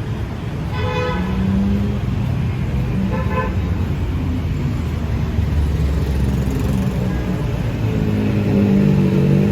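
City street traffic running steadily, with two short vehicle horn toots, about a second in and again about two seconds later.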